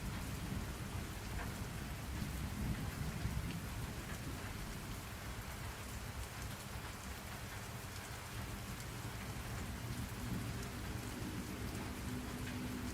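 Steady rain pattering down, with a low rumble of thunder underneath. A faint steady tone comes in near the end.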